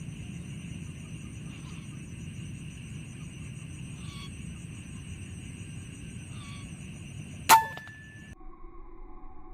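A single sharp shot from an Air Arms PCP air rifle about three-quarters of the way through, with a brief metallic ring. Before it there is a steady high-pitched buzz over a low rumble, with a few short faint chirps. Just after the shot the background changes abruptly to a quieter, different hum.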